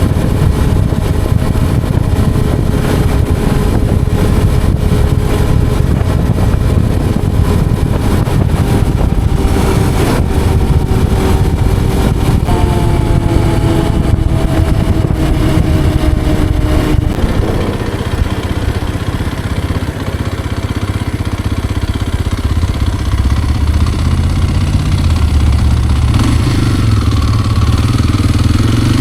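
Kawasaki KLX230R dirt bike's single-cylinder engine running at road speed, under heavy wind noise on the microphone. Its pitch slides down around the middle and climbs again near the end.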